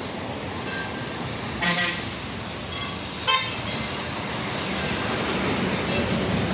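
Two short vehicle horn toots, the first a little longer, over steady road traffic noise.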